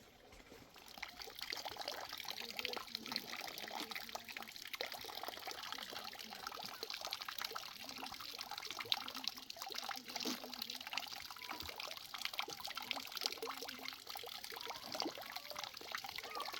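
Water pouring and trickling steadily, starting about a second in.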